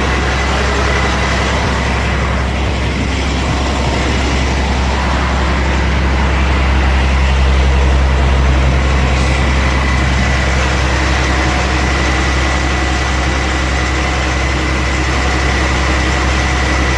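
Diesel truck engine heard from inside the cab while driving: a steady low drone with a faint constant whine above it, swelling slightly midway.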